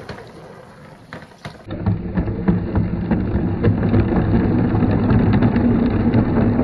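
Marbles rolling along a marble-run track: a dense, loud rumble with many small clicks, starting suddenly about a second and a half in after a few quieter clicks.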